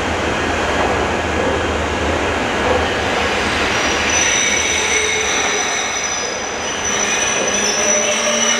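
Electric train moving through an underground station platform: a low rumble of wheels on rail that eases after about five seconds, joined about four seconds in by a steady high-pitched wheel squeal.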